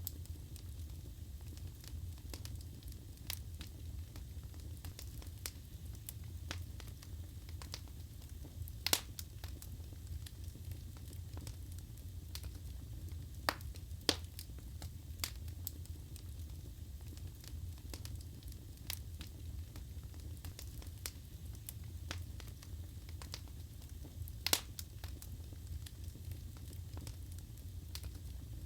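Wood fire burning in a fireplace: a steady low rumble of flames with scattered sharp crackles and pops, two of them louder, about nine seconds in and near the end.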